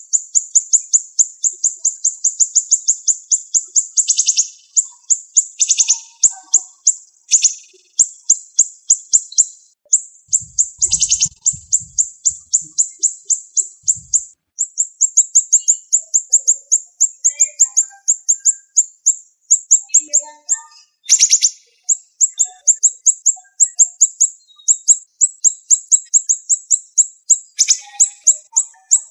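Siri-siri (velvet-fronted nuthatch) calling in rapid runs of high, sharp chips, many notes a second, broken every few seconds by a louder, harsher note.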